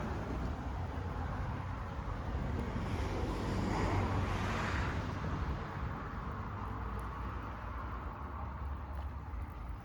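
Outdoor rumble with wind buffeting the microphone, and a passing vehicle swelling and fading about four seconds in.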